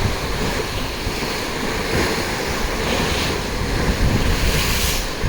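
Waves of roughly two metres slapping and washing against a ship's hull near the bow, with hissing surges of spray a few times. Heavy wind buffets the microphone throughout with a low rumble.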